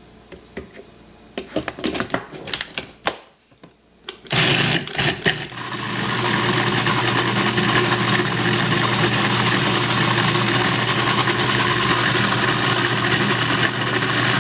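A few clicks and knocks, then about four seconds in a food processor motor starts and runs steadily at a loud, even level, blending chickpea hummus smooth.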